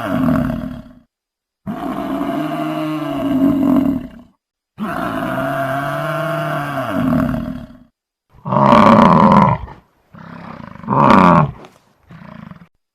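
Buffalo bellowing: a long, low call sounds three times, the same each time, then two louder, shorter calls and a brief faint one near the end.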